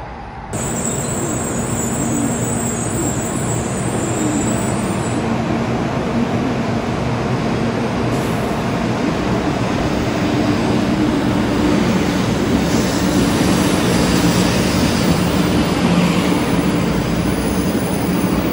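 500 series Shinkansen train at a station platform: a steady rumble with a low hum, growing louder in the second half.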